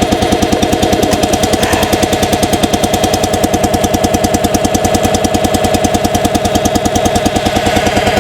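Log splitter's small choked gasoline engine running steadily just after a cold start at about 10°F, with an even, fast firing beat, warming up while its oil is still stiff from the cold.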